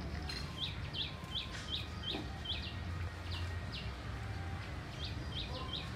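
A small bird chirping over and over, quick sharp chirps that each drop in pitch, coming in an irregular run of a dozen or so, over a steady low background rumble.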